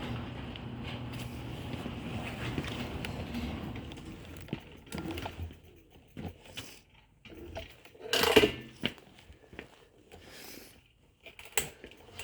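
Electric bike riding noise, a steady hum with motor tone, dying away about four seconds in as the bike stops, followed by scattered knocks and rattles from handling, with one loud knock about eight seconds in.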